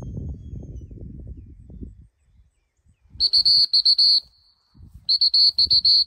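Dog-training whistle blown in two quick strings of short toots, each about a second long and a second apart: the multiple-toot come-in (recall) whistle used to handle a retriever. Before it, about two seconds of low rumbling noise.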